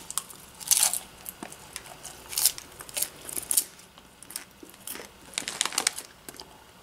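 A mouthful of popcorn being chewed close to the microphone: irregular soft crunches with short pauses between them.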